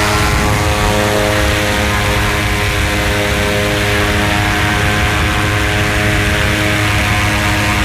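A loud, steady engine drone with a stack of steady humming tones and an even rushing noise, unchanging throughout.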